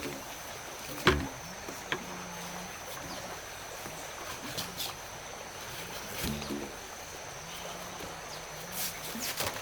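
A steady high insect drone, with two heavier knocks about a second in and about six seconds in, and scattered light clicks.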